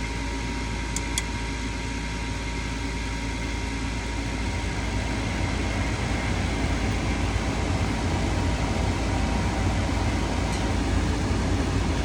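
Gas furnace running on a test call for heat after its flame sensor was cleaned: a steady fan hum with two short clicks about a second in, growing fuller and louder from about halfway through.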